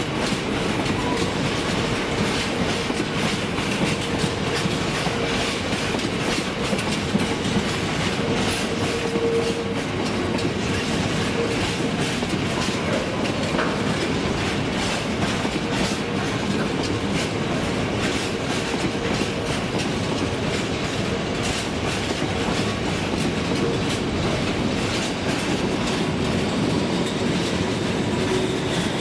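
Train running along the track with a steady rumble and rapid clatter of wheels over the rail joints, unbroken throughout.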